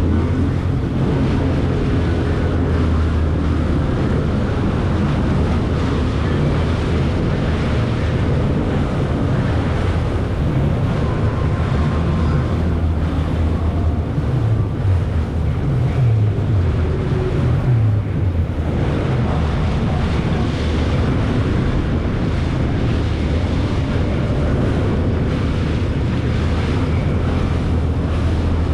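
Jet ski engine running steadily under way, with wind buffeting the microphone and water rushing past the hull. About halfway through, the engine pitch rises and falls several times.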